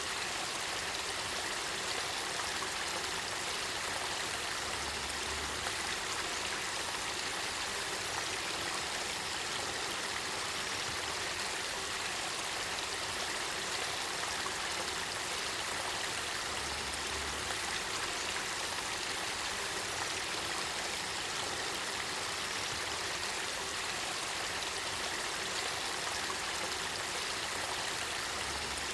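Spring water flowing in a steady, even rush with no breaks.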